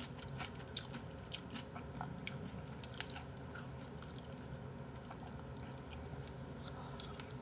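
Close-miked eating sounds: chewing a mouthful of abalone rice porridge, with scattered wet mouth clicks that thin out after about three seconds, over a low steady hum.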